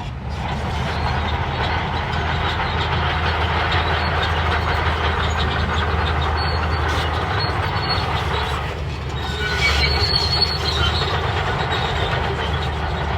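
Crawler bulldozer working: a steady diesel engine hum under the squeal and clatter of its steel tracks, which gets louder with a sharper squeal about ten seconds in.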